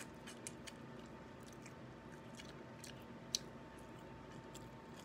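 Faint chewing and biting: a person eating crab meat with soft, scattered clicks, and one sharper click a little over three seconds in.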